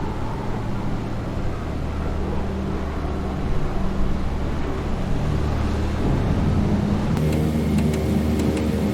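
The DC-3's twin piston engines drone steadily, heard from inside the cabin. About seven seconds in the sound changes, with a higher tone and faint regular ticking joining in.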